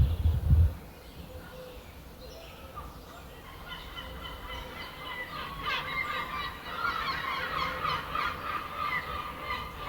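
Birds calling: a busy chorus of short, overlapping calls that builds from about three seconds in. Low buffeting from wind on the microphone in the first second.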